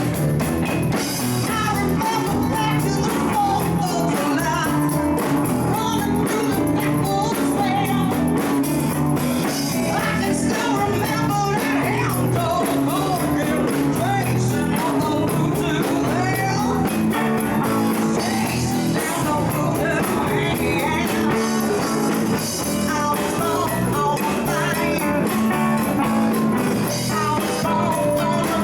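Live rock band jamming: electric guitar, bass and drums playing steadily, with a singing voice over them.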